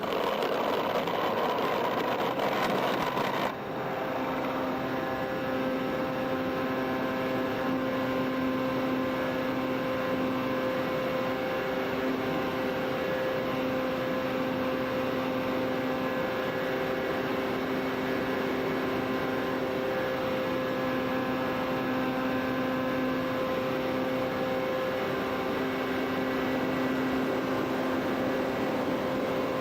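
The electric motor and propeller of a small FPV model aircraft droning at a steady throttle, a hum of several held pitches over a rush of air. For the first three or four seconds the sound is rougher and louder before it settles.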